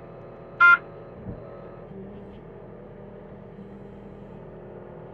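John Deere 325G compact track loader's diesel engine running steadily, with a single short, loud beep just under a second in.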